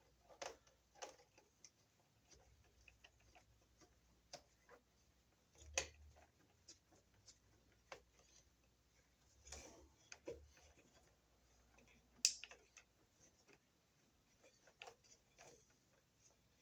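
Faint, irregular clicks and scrapes of a plastic wire nut being twisted onto stranded copper conductors. The nut is not yet grabbing the wires. The sharpest click comes about twelve seconds in.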